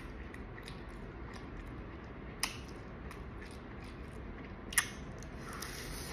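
Eating boiled crawfish: shells cracking and snapping, with two louder sharp snaps about two and a half and five seconds in, amid small clicks and soft chewing.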